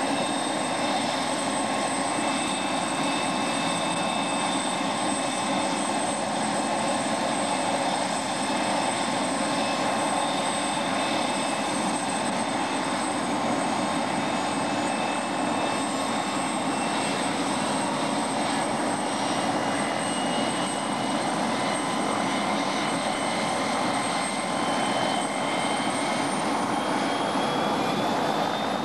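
MBB Bo 105 helicopter's twin Allison turboshaft engines running, a steady high turbine whine over a dense mechanical rush. Near the end the whine starts to rise in pitch as the engines spool up.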